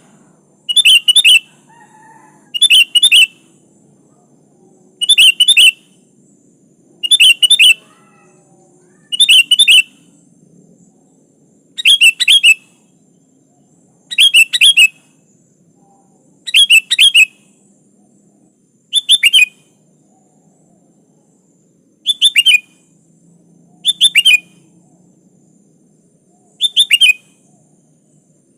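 Sooty-headed bulbul (kutilang) calling: loud, short, bright phrases of a few quick notes, repeated about every two seconds.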